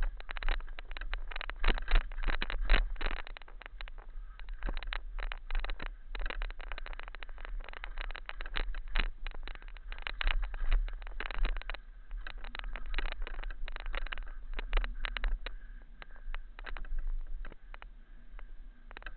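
Bike rattling and clattering over rough, rocky trail: a dense, irregular run of clicks and knocks from the frame and gear, over a steady low rumble.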